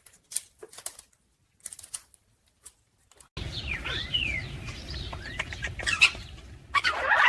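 A few light taps, then a parrot chirping and squawking in quick rising and falling calls with wing flapping, building to a louder burst of squawks and flaps near the end.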